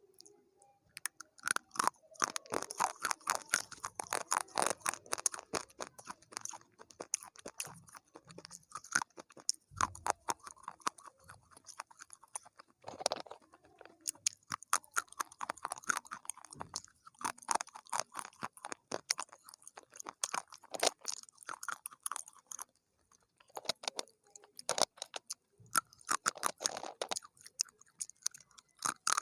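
Close-up chewing of crunchy food: runs of crisp crunching bites a few seconds long, broken by short pauses.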